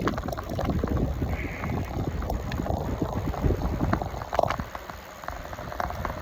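Wind buffeting the microphone of a bicycle rider moving at speed, a gusty low rumble that eases for a moment about five seconds in.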